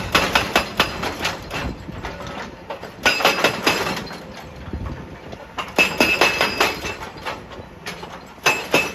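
Excavator-mounted hydraulic breaker hammering rock: bursts of rapid metallic blows, about four a second, each burst lasting one to two seconds with short pauses between.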